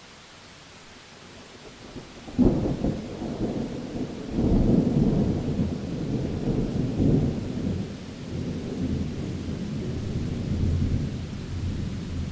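Thunder over steady rain. A sudden thunderclap comes about two seconds in, followed by a long, rolling low rumble that swells again twice and dies away near the end.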